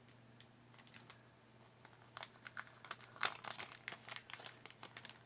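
Light crinkling of small packaging and scattered clicks as pieces of jewelry are handled, busiest in the middle of the stretch, over a faint steady hum.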